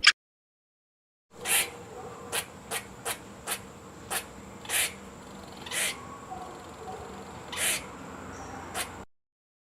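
Squirrel calling, starting about a second in: about ten short, sharp chirps at irregular intervals, a few of them slightly drawn out, over a faint steady background hiss.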